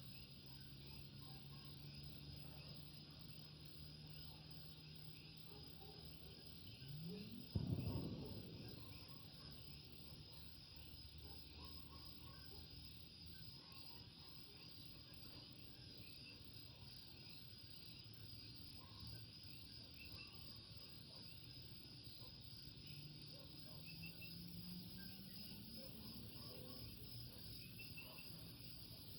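Night chorus of Puerto Rican coquí frogs calling over and over, many overlapping chirps with a steady insect-like drone above them. About a quarter of the way in, a brief louder sweep and rumble passes through the chorus.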